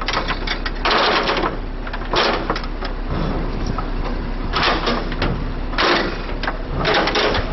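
An engine running steadily, with short noisy mechanical bursts of about half a second each, five times at uneven spacing, during heavy truck recovery work.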